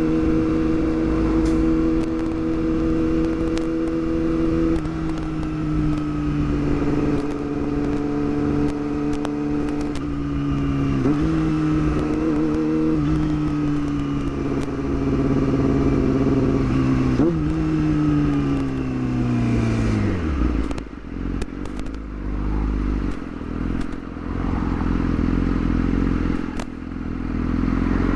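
Yamaha R6's inline-four engine running at steady cruising revs, the note stepping down a few times with gear changes, then falling away about twenty seconds in as the bike slows, leaving a low, uneven rumble with some crackle.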